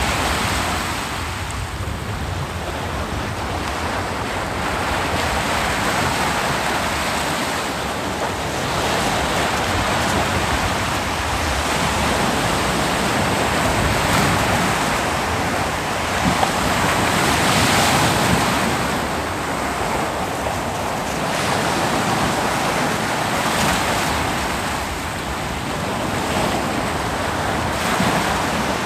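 Ocean surf breaking and washing onto a beach in a continuous rush, swelling louder every few seconds as each wave comes in.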